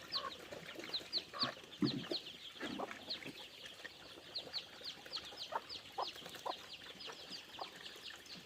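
Chickens clucking, over a steady run of high, downward-sliding peeping chirps, about three or four a second.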